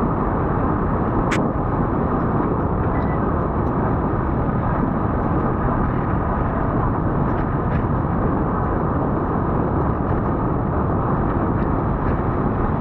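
Steady, loud rumbling noise with no clear pitch, with a few sharp clicks, the clearest about a second in.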